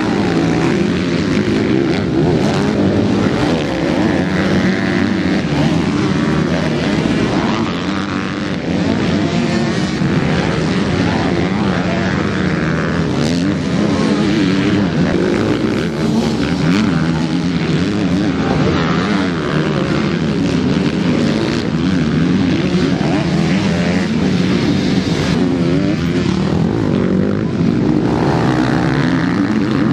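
MX2 motocross bikes racing, their engines revving up and down continuously as several bikes overlap.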